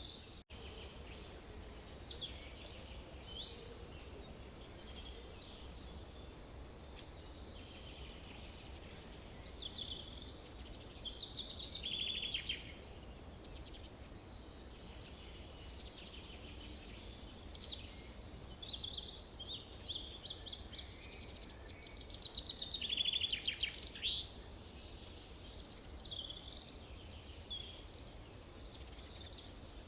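Forest birdsong: several birds singing and calling in overlapping short phrases, with a louder rapid trilled song about a third of the way in and again about three quarters through, over a steady low background hum.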